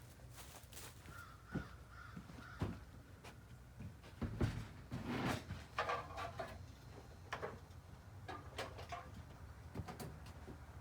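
Several crows cawing in the background, with scattered light clicks and knocks of hand-tool handling.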